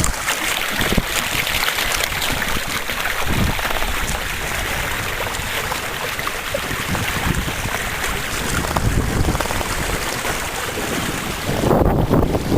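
Water rushing and splashing along a sailing canoe's hull, with wind buffeting the microphone; the wind rumble grows heavier near the end.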